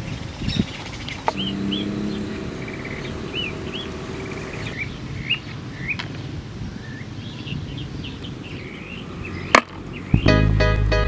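Small birds chirping over and over in short, rising notes, with a few sharp knocks scattered through, the loudest shortly before the end. Music with a steady beat comes in near the end.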